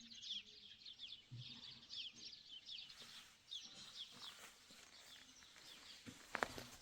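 Birds chirping faintly in many quick, short, downward-sliding notes, thinning out after a few seconds, with a couple of sharp clicks near the end.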